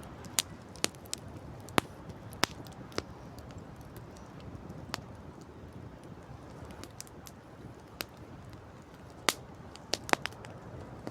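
Wood campfire crackling, with sharp, irregular pops and snaps over a steady low rush of background noise.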